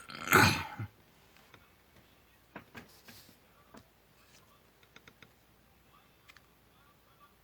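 Hands working on a paper model: a short, loud rustle or scrape under a second in, then scattered small clicks and taps of paper and craft tools being handled.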